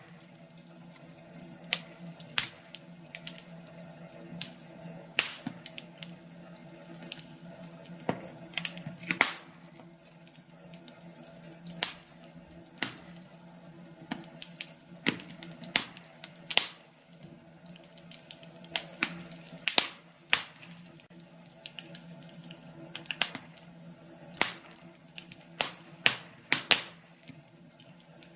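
Wood fire crackling and popping: irregular sharp pops, several a second, over a low steady hiss and hum of the burning logs.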